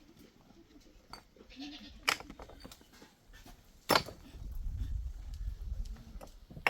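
Livestock bleating faintly, with two sharp knocks about two and four seconds in, and a low rumble from about four seconds on.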